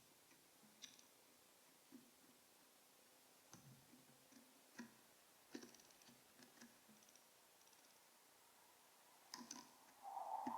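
Scattered light clicks and taps, irregularly spaced, of a white-breasted nuthatch's bill and feet on a Bird Buddy feeder. A louder call starts near the end.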